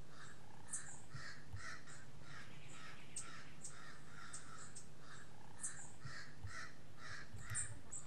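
A bird calling over and over with a short harsh note about twice a second, with sharp high ticks scattered among the notes, over a steady low hum.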